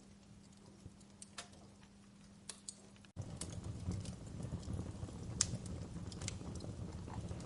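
Wood fire crackling in a fireplace, with scattered sharp pops and snaps. About three seconds in, the sound drops out for an instant and comes back fuller, with a louder low rumble and more frequent crackles.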